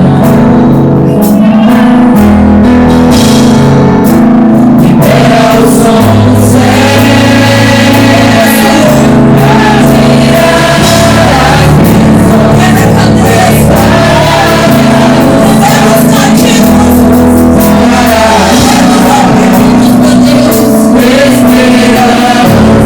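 Gospel praise song sung by several voices over a band with drums, loud and unbroken.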